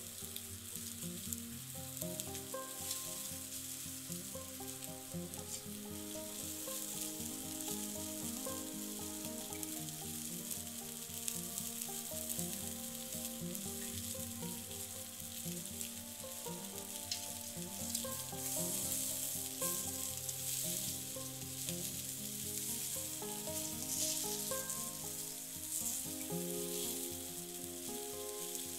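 Food sizzling and crackling steadily as it cooks, with many small pops, under background music.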